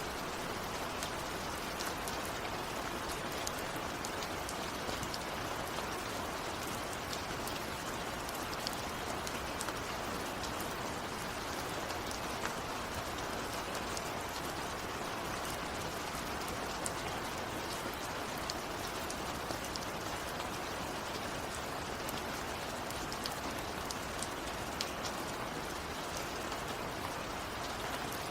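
Steady rainfall, a constant hiss with many individual drops ticking sharply on a surface. No thunder is heard.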